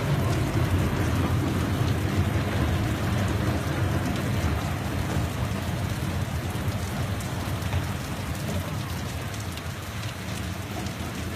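Heavy rain falling with a deep rumble underneath, the whole slowly growing quieter.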